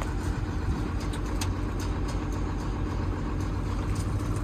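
A truck engine idling steadily, with a few faint clicks over it.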